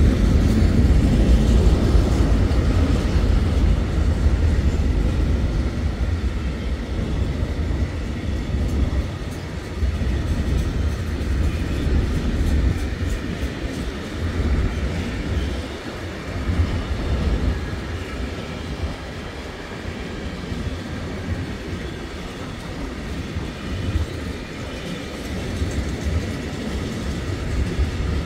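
Freight train of covered hopper wagons rolling past: a steady rumble of steel wheels on the rails with irregular clatter over the joints, easing off a little after the first several seconds.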